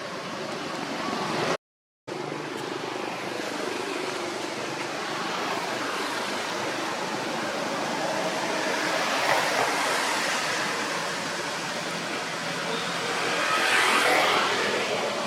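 Outdoor road traffic noise: a steady rush of passing vehicles, swelling louder midway and again near the end as vehicles go by, with a brief complete cut-out near the start.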